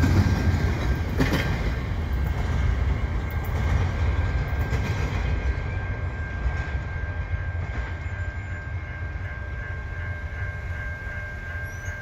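Double-stack intermodal freight cars rolling away: a low rumble of wheels on rail with clickety-clack, fading steadily as the train recedes. A sharp clank comes about a second in, and a thin steady high tone runs through it.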